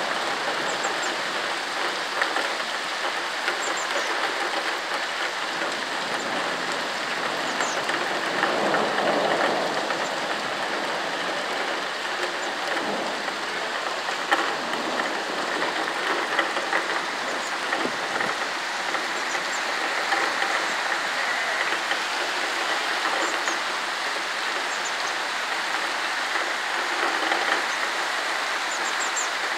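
Heavy rain pouring down in a steady, dense hiss on pavement and trees, swelling a little about eight seconds in, with a few sharper drips and taps.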